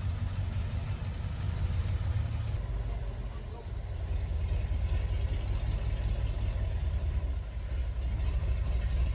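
Bulldozer's diesel engine running, a steady low rumble that eases off and builds again a couple of times.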